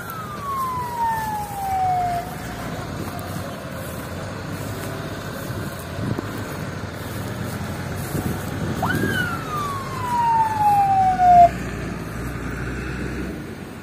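Emergency vehicle siren giving two short whoops, each a quick rise then a slow falling sweep lasting about two seconds, one at the start and one about nine seconds in, over the steady rumble of a vehicle engine.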